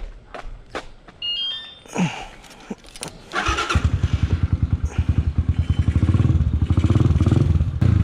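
A short rising run of beeps, then the Skygo Earl 150's single-cylinder CG150 engine, fitted with a 28mm UMA Racing VR carburetor, starts. It catches about three and a half seconds in and settles into a fast, even idle.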